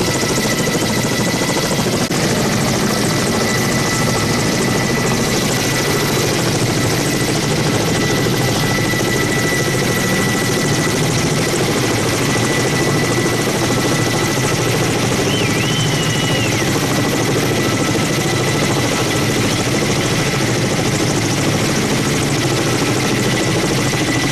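Helicopter running steadily at a constant level, its engine and rotor noise unbroken throughout.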